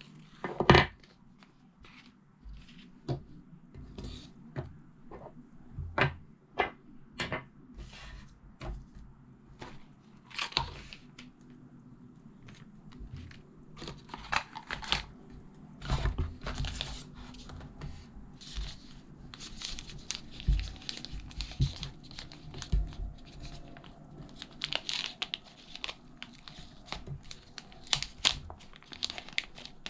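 Packaging being unwrapped and handled: plastic or paper crinkling and tearing, with scattered sharp clicks and knocks, the sharpest about a second in, and denser rustling in the second half.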